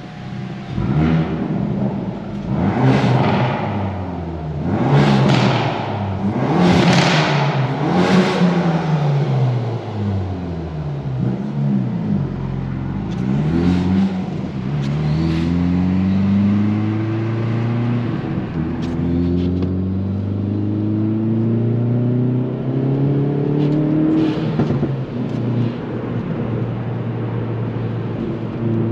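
Hyundai i30 N's turbocharged 2.0-litre four-cylinder engine heard from the cabin, accelerating hard through the gears: the revs climb, drop at each upshift and climb again, with several long pulls in the second half. Short loud bursts of noise come with the rev changes in the first eight seconds.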